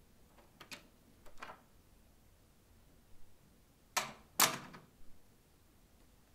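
Soft rustling of a wool coat and bedding as someone moves on a bed. There are two faint rustles early on and two louder swishes close together about four seconds in.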